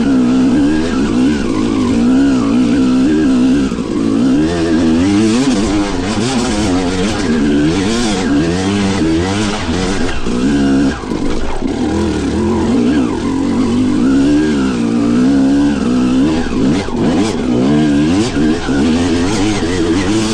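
Yamaha YZ250 two-stroke dirt bike engine being ridden hard, its pitch rising and falling every second or so as the throttle is worked on and off.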